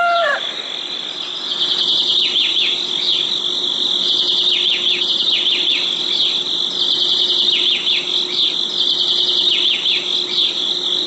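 A steady high-pitched insect-like chorus with bursts of quick, falling, bird-like chirps repeating every two seconds or so.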